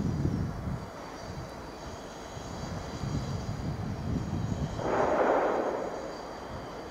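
Diesel High Speed Train moving away, its rumble fading over the first second to a low, distant drone. About five seconds in, a rushing sound swells and dies away over about a second and a half.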